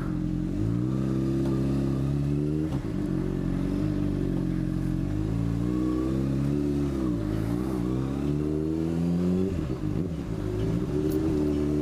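Motorcycle engine pulling away and running through the gears, its pitch climbing and falling as it revs and shifts, with two clear drops in revs about 7 and 10 seconds in.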